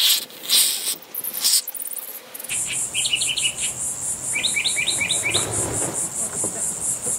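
Crickets chirping in a steady, rapid pulse, with a bird's quick chirps breaking in twice. A few short rasping bursts come first, about the first two seconds.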